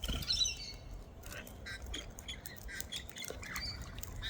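Wild cockatoos calling: a harsh squawk right at the start, then short, high chirping calls among scattered light clicks.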